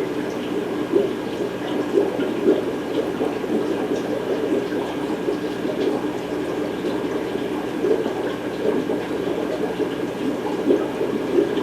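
Fish-room aquarium filtration: water bubbling and splashing continuously, with a faint steady hum underneath.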